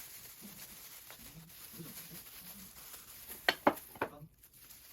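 Two sharp clicks or knocks in quick succession about three and a half seconds in, with a weaker one just after, over a faint indoor background.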